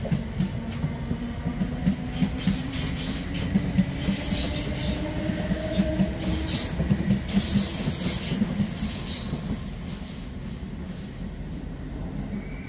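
South Western Railway Class 455 electric multiple unit running past, its wheels clattering in a quick irregular run of knocks over the track, over a low rumble. High-pitched wheel squeals come and go through the middle and fade out near the end.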